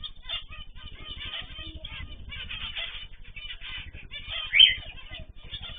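A mix of small ornamental cage birds chirping and calling over one another in many short notes, with one loud rising squawk about four and a half seconds in.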